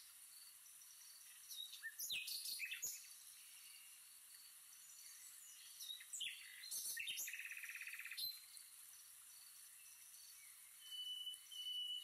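Small birds chirping, with a burst of quick high calls about two seconds in and another from about six seconds that includes a rapid trill. A steady high note begins near the end.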